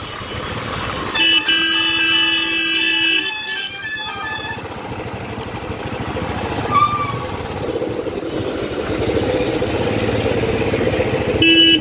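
City road traffic heard from a moving motorcycle, with a vehicle horn sounding steadily for about two seconds starting about a second in, and a short honk near the end.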